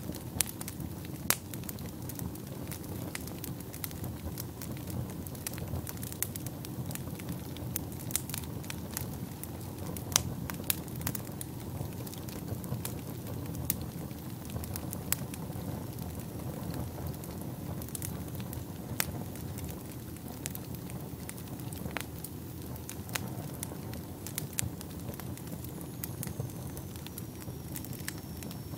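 Wood fire burning in a fireplace: a steady low rumble of flames with frequent sharp crackles and pops, the loudest about a second in and again around ten seconds. Near the end a faint high whistle slides slightly downward.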